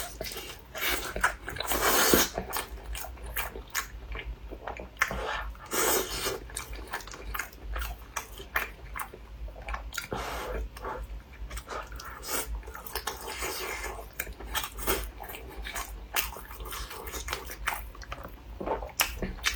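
Close-miked eating: chewing and biting with many irregular wet clicks, plus short louder bursts about two and six seconds in.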